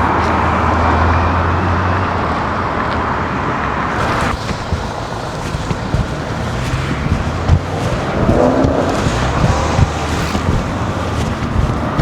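City street ambience: steady road traffic noise with a low engine hum in the first couple of seconds, and wind buffeting the microphone later on.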